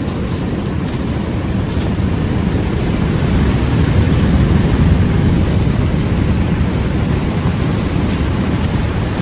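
Ocean waves washing onto a beach: a steady, deep surf noise that swells about four to five seconds in, with wind blowing on the microphone.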